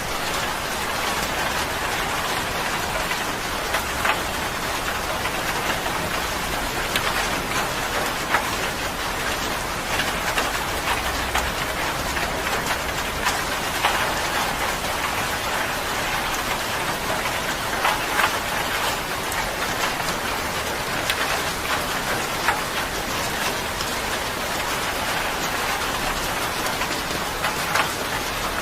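Steady rain falling on a surface, an even hiss with frequent sharper drop impacts standing out here and there.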